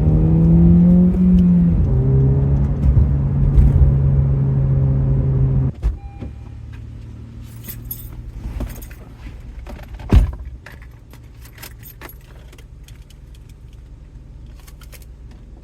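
A car engine running steadily, with one brief rise and fall in revs about a second in, stops abruptly about six seconds in. Keys jangling and scattered clicks follow, with one sharper knock.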